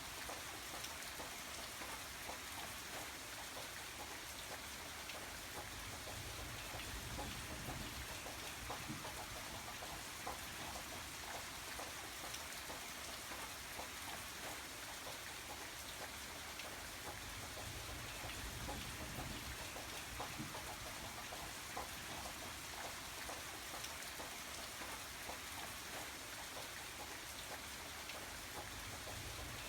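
Steady rain falling, an even hiss with many small drop ticks and a soft low rumble underneath.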